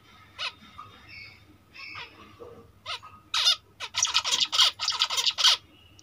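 Cage birds calling: a few scattered short calls, then a quick run of about nine loud, harsh calls in the second half.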